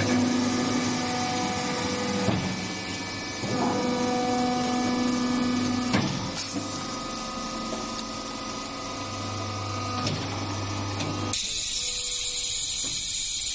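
Wood-shaving baling machine running: a steady hum with tones that come and go in spells of a couple of seconds, a few clunks along the way. About eleven seconds in, the hum stops and a high hiss takes over.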